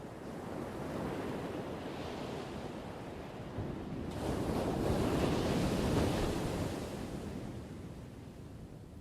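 Ocean waves breaking on the shore: a smaller surge about a second in, then a bigger wave crashes about four seconds in, peaks, and washes out, fading toward the end.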